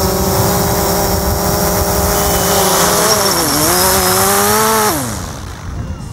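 DJI Phantom 4 quadcopter's motors and propellers whining with a rushing noise as it comes down to land. The pitch dips and climbs again about three seconds in, then winds down and stops about five seconds in as the drone touches down and the motors are cut.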